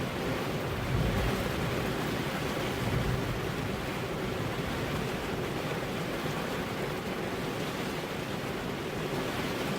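Steady rainfall making an even hiss, with two brief low swells about a second and three seconds in.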